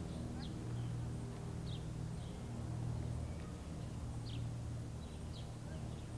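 Birds chirping in short, high, falling notes about once a second, over a steady low hum.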